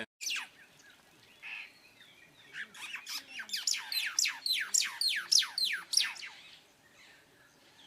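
A wild bird calling a rapid series of sharp, steeply falling whistled notes, about four a second, building up a couple of seconds in and tailing off near the end.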